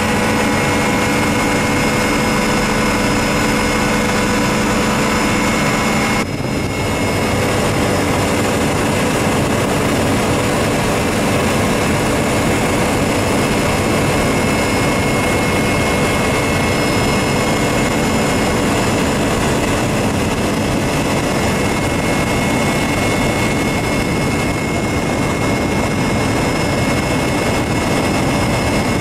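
Helicopter running in steady flight: a constant loud engine and rotor drone with steady whining tones. The sound breaks briefly about six seconds in, then carries on much the same.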